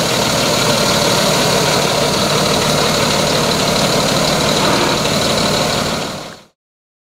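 Heavy truck engine idling steadily; the sound cuts off abruptly near the end.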